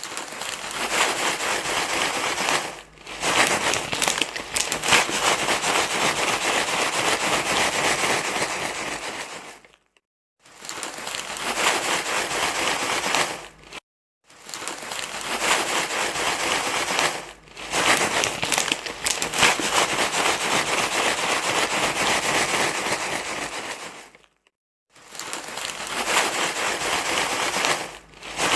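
Loud crinkling, rustling noise, a baby-soothing rustle sound, going in stretches of several seconds with brief silent gaps between them, about five times.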